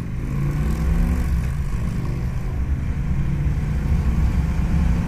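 Victory Gunner's big air-cooled V-twin running under way with wind rush, getting louder about half a second in as it pulls, while the rider struggles with its notchy shifting.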